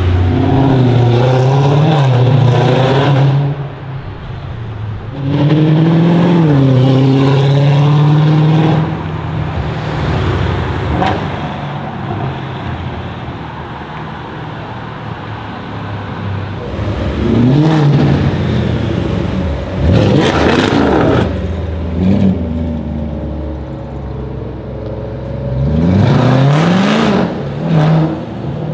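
Mercedes C63 AMG Black Series' 6.2-litre V8 through a decatted iPE exhaust, loud, accelerating hard in several bursts with the revs climbing and dropping between gears. A quieter stretch of low running in the middle, and a brief sharp crackle a little past two-thirds through.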